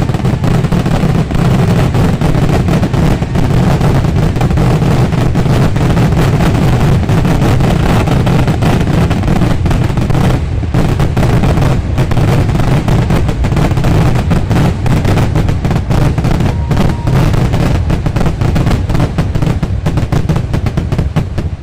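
A dense, unbroken barrage of fireworks explosions, the bangs packed so closely that they run together into one continuous rattle, loud throughout.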